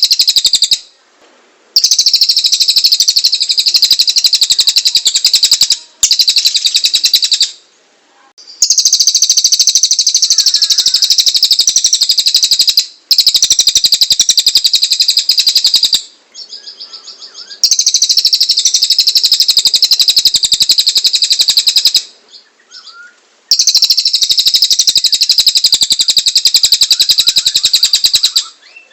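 Cililin songbird singing in long, high, rapid rasping trills, each a few seconds long with short pauses between them: its loud 'gacor' song with rough 'tembakan' bursts.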